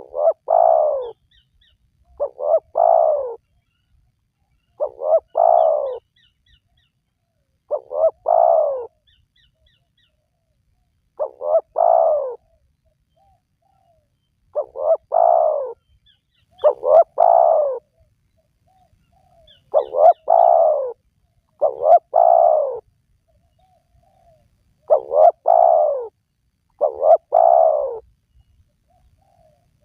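Spotted dove (tekukur) cooing: a repeated phrase of two short notes followed by a longer coo, about every two to three seconds, with quiet gaps between phrases.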